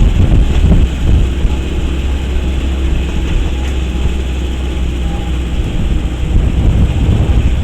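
Vehicle driving along a rough road, its engine and road noise making a steady, loud rumble, with wind buffeting the microphone.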